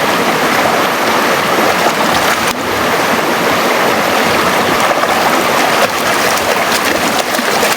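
Shallow river water rushing steadily.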